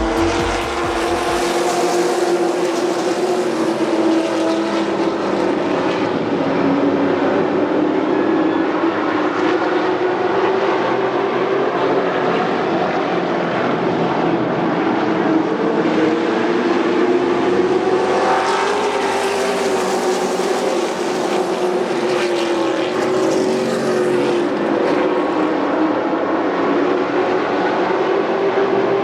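Several race-truck engines running at speed around an oval track, their engine notes rising and falling as the trucks pass and change speed.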